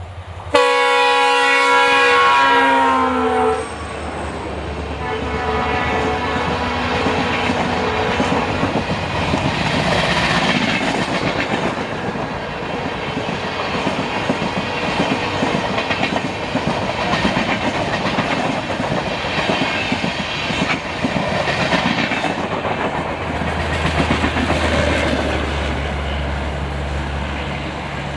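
An Indian Railways express train sounds a loud multi-tone horn for about three seconds. The pitch drops as the locomotive passes, and the horn trails off over the next few seconds. Then the coaches rush past at high speed with steady wheel clatter on the rails. Near the end a low steady rumble takes over.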